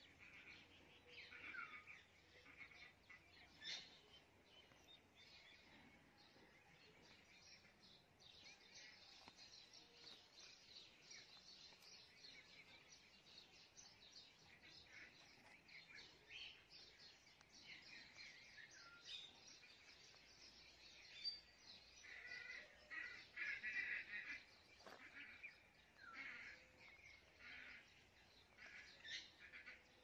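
Faint, busy bird chirping: many short high chirps and calls in quick succession, louder for a few seconds about three-quarters of the way through.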